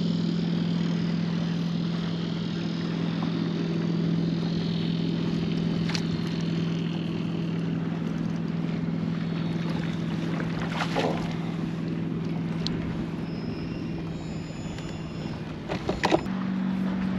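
Electric trolling motor on a kayak running with a steady low hum, with wind noise and a few sharp clicks. The hum steps up slightly in pitch near the end.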